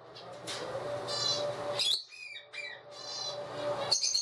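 Pet parrots calling: a long raspy squawk, then a few short high chirps about two seconds in, and a sharp squawk near the end.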